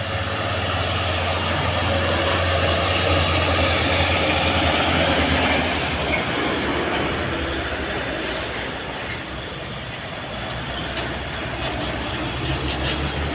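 Heavy diesel trucks, Mitsubishi Fuso among them, driving past with a steady low engine drone and road noise. The drone swells to its loudest about four to five seconds in and then eases off. A thin high whine fades out about halfway through and comes back near the end.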